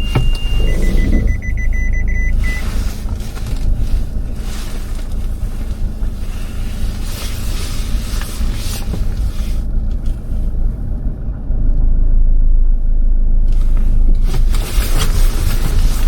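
Car interior while driving: steady engine and road rumble. Brief high electronic tones sound in the first two seconds.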